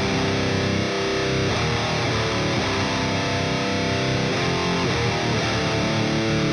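Epiphone Widow Les Paul Custom electric guitar played through distortion, ringing chords and riffs that change every second or so.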